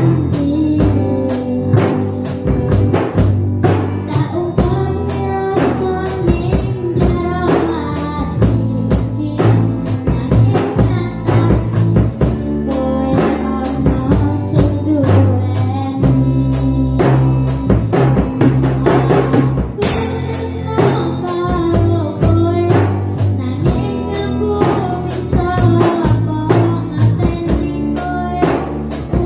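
Band music with a drum kit keeping a steady beat, an instrumental passage of a Javanese pop song cover.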